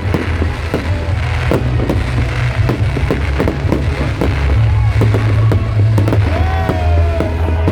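Fireworks going off in quick succession: many sharp bangs and crackles, with whistling rockets gliding up and down in pitch, over a steady low rumble.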